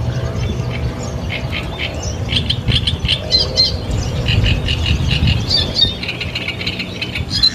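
Ducks squawking in a quick run of short, high calls that start about a second in, over a steady low hum.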